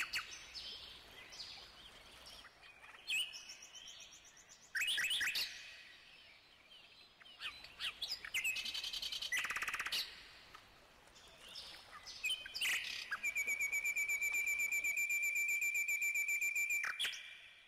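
Birdsong: several birds chirping and giving short trills, then one long, fast, even trill over the last few seconds that fades out near the end.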